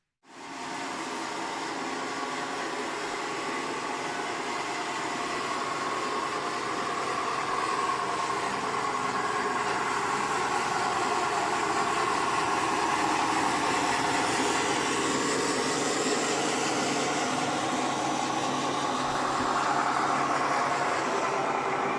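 Engine sound of a WPL B36 Ural radio-controlled truck running steadily, rising a little about halfway through and again near the end.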